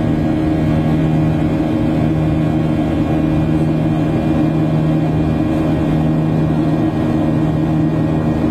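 Steady engine drone inside a jet airliner's cabin: a constant low hum with several fixed tones over a rushing noise, unchanging throughout.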